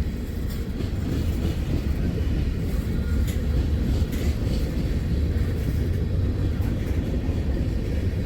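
Freight train cars rolling slowly past: a steady low rumble with a few faint clicks from the wheels and rails.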